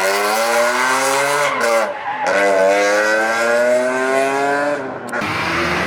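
A car engine accelerating hard through the gears. The pitch climbs, drops at an upshift about two seconds in, and climbs again before breaking off into a rushing noise near the end.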